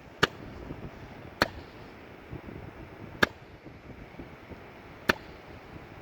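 Four sharp, single clicks at uneven gaps, about a second to two seconds apart, over a faint steady hiss.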